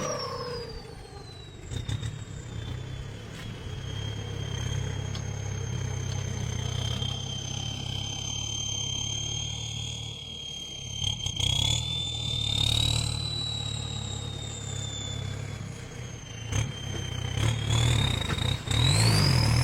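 Tractor diesel engine running under load as it pulls on a tree. A high whine drops in pitch over the first couple of seconds, holds steady, then climbs again near the end as the engine revs up and gets louder.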